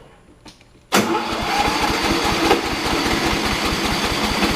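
Kohler 20 hp riding-mower engine catching suddenly about a second in and running with a fast, even exhaust beat. The owner takes the sound for a bad exhaust leak.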